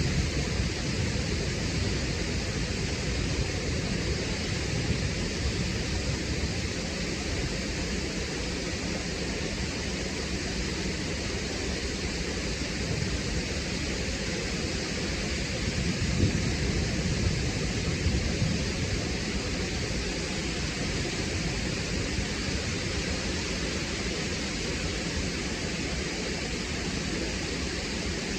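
Waterfall crashing onto rocks, a steady rushing roar of falling water.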